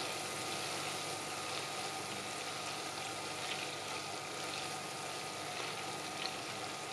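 Dried shallot slices deep-frying in a pot of oil: a steady, even sizzle and bubbling. The oil is still bubbling because moisture is still cooking out of the shallots; they are not yet fully crisp.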